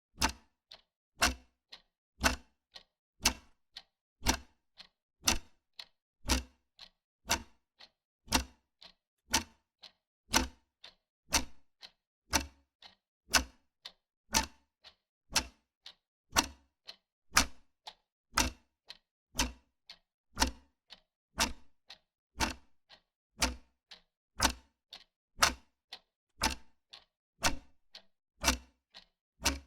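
Wall clock ticking steadily, about two ticks a second, a louder tick alternating with a softer tock.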